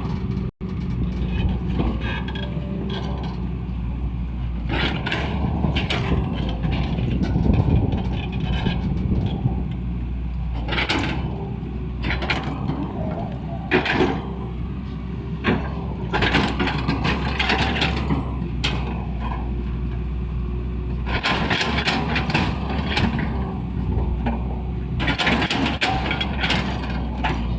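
Excavator's diesel engine running steadily under load, with repeated sharp clanks and scrapes of metal knocking at irregular intervals.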